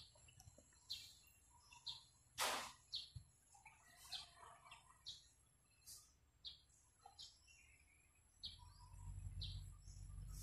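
Faint chirping of small birds, short high chirps one or two a second, over near-quiet room tone. A brief hiss about two and a half seconds in, and a low hum comes up near the end.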